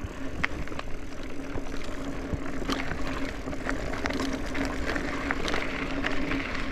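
Mountain bike rolling along a dirt trail: tyre noise over the ground, with frequent small clicks and knocks from the bike rattling, and a steady hum underneath.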